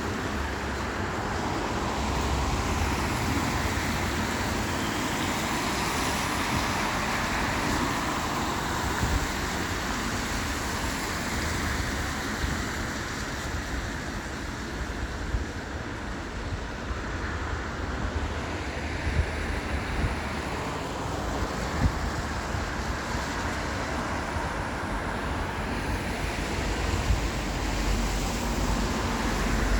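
Steady road traffic noise, cars passing on a wet road, with a low wind rumble on the microphone.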